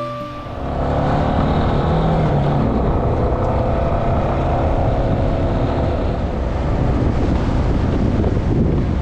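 Motorcycle engine running while riding, a steady rumble whose pitch slowly rises and falls with the throttle, mixed with wind noise; likely the rider's Yamaha Serow 250, a single-cylinder bike.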